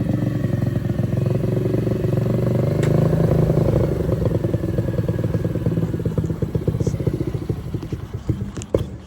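Small 125cc motorcycle engine running at idle. Toward the end its firing beats grow quieter, slower and more separate.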